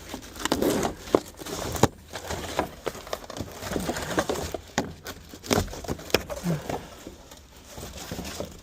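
Cardboard boxes being broken down by hand: irregular snaps, crackles and crumpling as the cardboard is folded and flattened.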